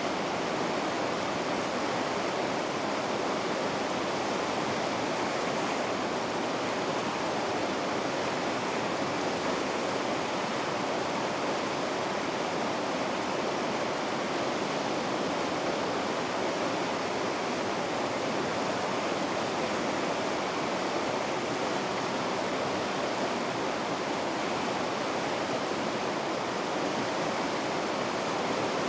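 Steady rush of river rapids, an even roar of fast water with no change throughout.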